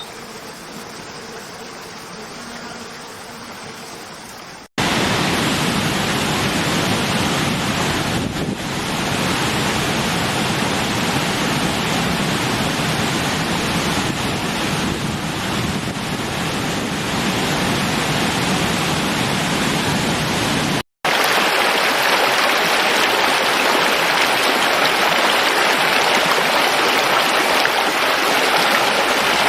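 Rushing water, a steady even hiss, in three separate recordings. A quieter stretch cuts out about five seconds in. Loud steady rushing follows, then after another brief cut a brighter, hissier rush of water.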